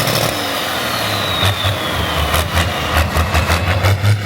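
Diesel truck engine running loud, its low rumble pulsing unevenly through the second half, with a high whistle falling in pitch over the first two seconds.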